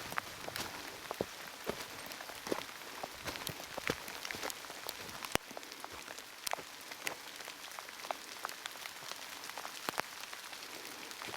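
Heavy rain falling steadily, a constant hiss with many close, irregular drop ticks.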